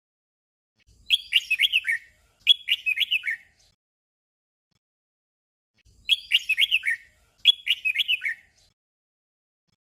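Red-whiskered bulbul singing its short 'double' song: a quick warbled phrase given twice in a row. The song comes twice, about a second in and again about six seconds in, with silence between.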